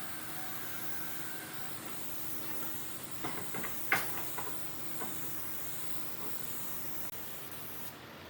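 A steady hiss with a faint hum under it, and a few light clicks and knocks around the middle, the sharpest about four seconds in.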